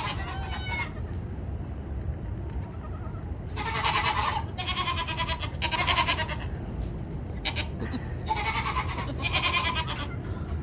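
Newborn Nigerian Dwarf goat kids bleating in high, loud calls, about five of them, each under a second long, over a steady low rumble.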